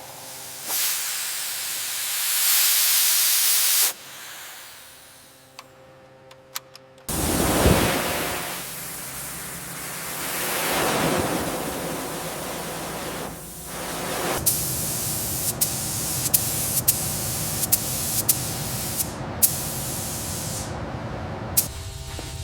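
Loud hissing spray-like noise in swells. The first cuts off abruptly about four seconds in, and the hiss returns louder about seven seconds in. In the second half, sharp clicks or taps sound every half second to second over the steady hiss.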